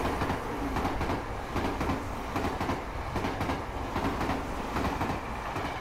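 Abukuma Express train running along the track: a steady low rumble with repeated clacks of the wheels over the rail joints.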